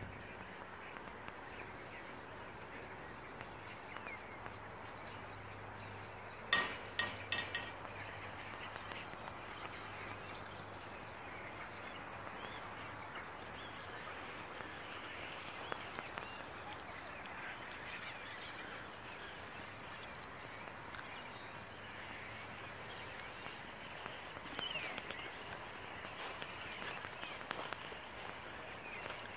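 Outdoor ambience with a steady background hiss and scattered high bird chirps, several thin falling ones clustered around ten to thirteen seconds in. A quick run of sharp clicks about six and a half seconds in is the loudest sound.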